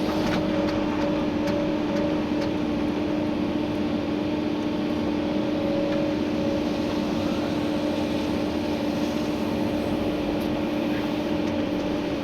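Komatsu PC290-11 excavator working, heard from inside the cab: steady machine running noise with a steady whine that stops at the very end.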